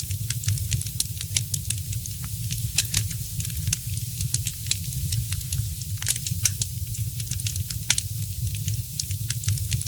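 Wood fire crackling in a fireplace: a steady low rumble of burning logs with frequent sharp snaps and pops, a few louder ones about three and six seconds in and again near eight seconds.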